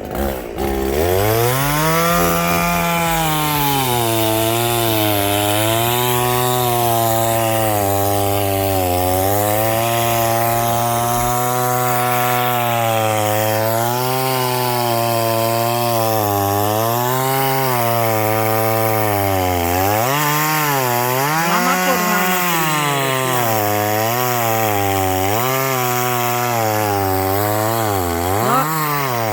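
Two-stroke chainsaw cutting into a large tree to fell it. The engine note rises and dips again and again as the chain loads up in the cut and frees, with deeper dips in the last third.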